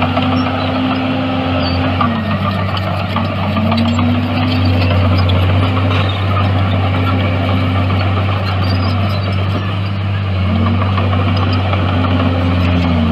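Heavy earthmoving machine's diesel engine running loud and steady under work, its revs dipping and climbing back twice.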